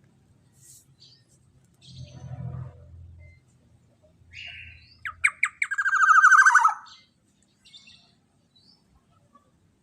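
Black-naped oriole (kepodang) calling: a harsh nasal note, then a few sharp notes running into a loud, rapid buzzy rattle that lasts about a second and a half and drops slightly in pitch at the end. A softer low sound comes about two seconds in.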